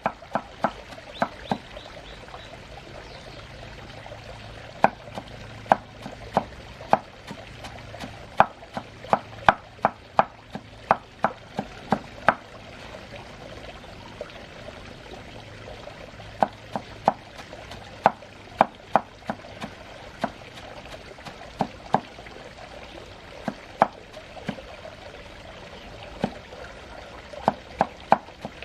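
Knife chopping food on a wooden cutting board in runs of steady strokes, about two a second, broken by a few short pauses.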